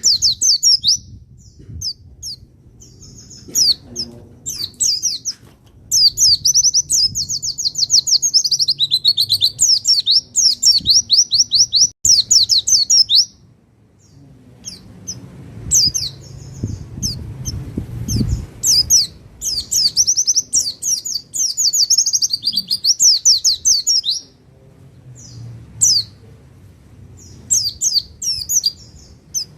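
White-eye (pleci) singing: rapid, high twittering trills in several long phrases separated by short pauses, the longest phrases around the middle of the stretch.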